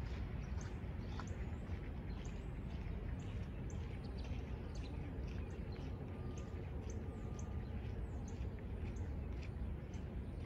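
Small birds chirping: a run of short, high, falling chirps, about two or three a second, over a steady low rumble.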